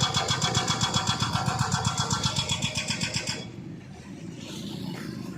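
A small motor running with a fast, regular beat, cutting off about three and a half seconds in.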